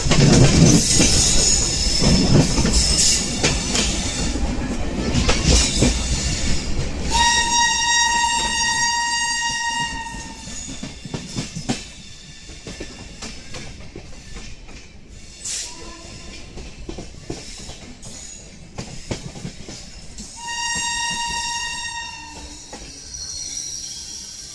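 An express train passing at speed, its wheels clattering over the rail joints, with the rumble fading away after about ten seconds. A train horn sounds twice: a long single-note blast about seven seconds in and a shorter one about twenty seconds in.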